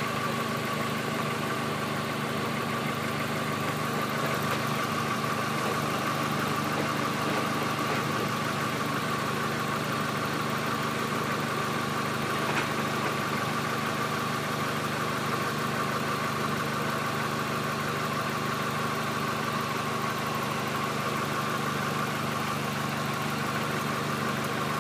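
1997 Honda Accord's 2.2-litre VTEC four-cylinder engine idling steadily.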